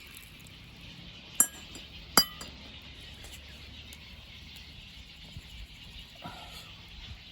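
Two sharp clinks of camp cookware, under a second apart, each ringing briefly.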